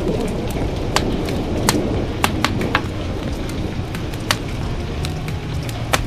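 Wood fire crackling, with about seven sharp pops scattered irregularly over a steady low rumbling background of rain.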